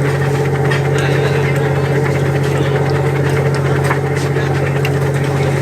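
An engine aboard a tour ship running steadily with an even, unchanging hum, plus a few faint light clicks.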